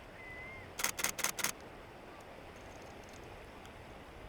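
Camera shutter firing four times in a quick burst, about a second in, over a steady background hiss. A brief high whistle is heard just before the shutter.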